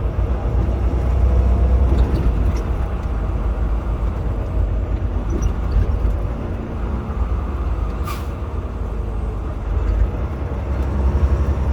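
Semi truck's diesel engine running steadily with a low rumble, heard from inside the cab, with a brief sharp sound about eight seconds in.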